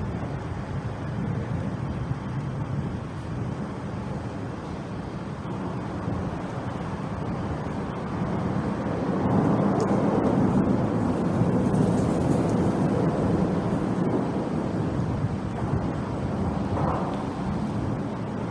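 Steady low rumble of traffic and wind on the microphone, swelling from about nine seconds in to about fourteen seconds as a vehicle passes, then easing.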